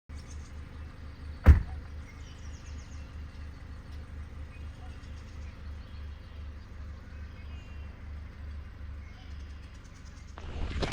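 Outdoor birding ambience: a steady low rumble with faint, scattered bird chirps. A single sharp knock comes about a second and a half in, and footsteps on a trail start near the end.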